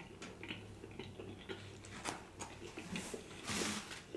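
A man chewing a mouthful of food with his mouth closed: quiet, irregular wet mouth clicks and smacks.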